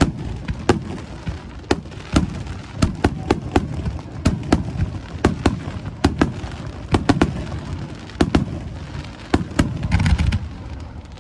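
Aerial fireworks bursting overhead: an irregular rapid string of sharp bangs and booms over a continuous low rumble, with a stretch of crackling hiss about ten seconds in.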